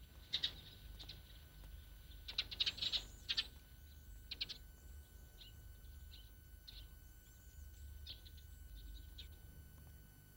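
Small birds chirping in short, scattered calls, with a quick run of chirps about two to three seconds in, over a faint low hum.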